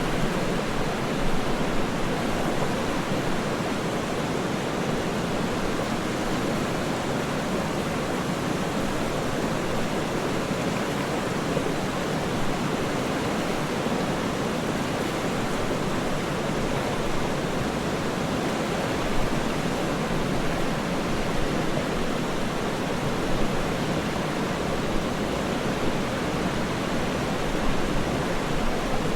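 Waterfall rushing in a steady, even roar of falling water, with no change over time.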